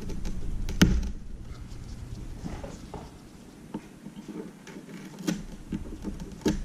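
Small hand-tool clicks and light taps on an iPad mini's frame as broken glass is picked out from under its edge: scattered sharp ticks, the loudest just under a second in.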